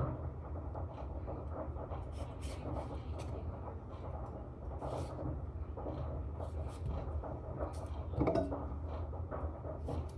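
Knife cutting a cucumber into cubes: short, sharp cuts and taps at irregular intervals, with a louder knock about eight seconds in, over a steady low hum.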